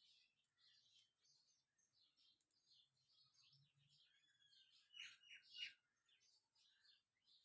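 Faint birds chirping, many short high calls, with a louder burst of chirps about five seconds in.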